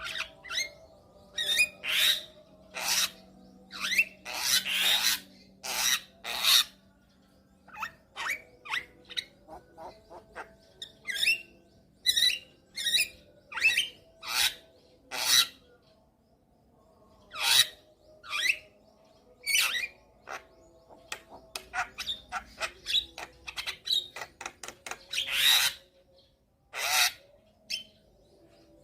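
Javan myna singing vigorously in a long, varied run of harsh squawks and whistles mixed with quick trains of short clicking chirps.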